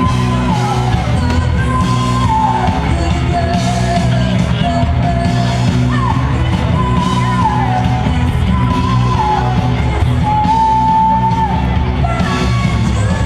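Live amplified band music, with a strong bass and a sustained lead melody that slides between long held notes.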